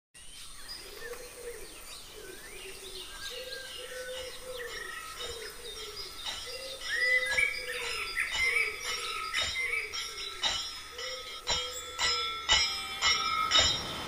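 Birds calling, a repeated low rising-and-falling call mixed with higher chirps. From about halfway, sharp clinks or knocks come more and more often.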